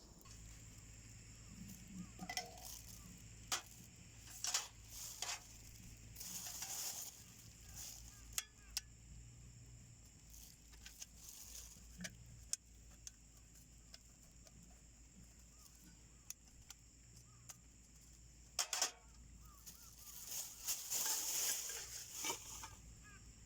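Scattered sharp clicks and light metallic clinks, with two longer rustling bursts, from tending a small homemade wood stove campfire, over a steady high insect trill.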